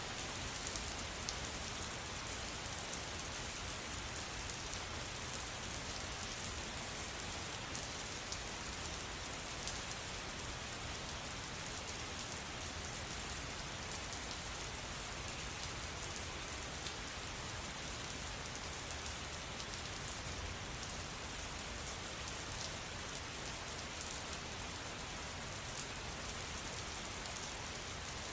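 Steady rain falling, an even hiss of rain with fine pattering of drops.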